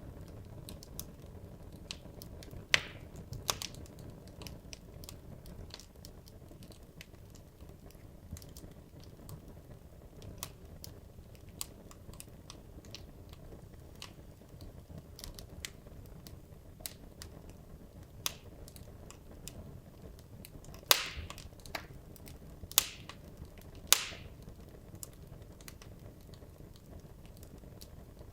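Wood logs burning in a fireplace: a steady low rumble of the flames under frequent small crackles, with a few louder pops about three seconds in and three sharp pops close together near the end.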